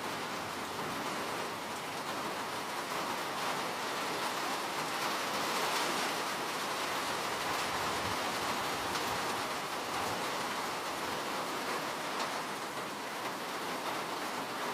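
Steady rain falling, an even hiss of many drops without any single clear impacts.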